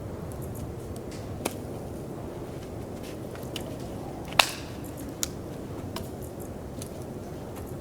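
A few sharp snaps or knocks, the loudest about four and a half seconds in, over a steady low rushing noise.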